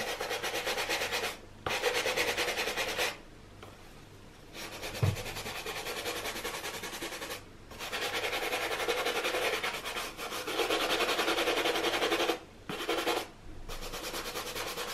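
Bristle brush from a Crep Protect Cure kit scrubbing a wet leather Nike Air Force 1 sneaker in quick back-and-forth strokes, in several spells with short pauses between them.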